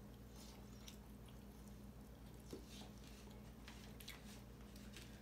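Faint chewing and small wet mouth clicks of people eating smoked pork ribs, over a steady low hum.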